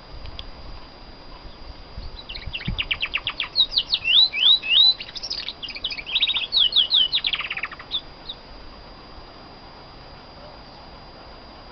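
Female domestic canary singing one song phrase: fast trills of rapidly repeated notes, several rising swept notes in the middle, then another trill before it stops about two-thirds of the way through.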